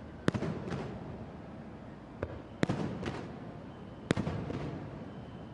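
Aerial firework shells bursting: about seven sharp bangs in quick clusters, each trailed by a rumbling echo.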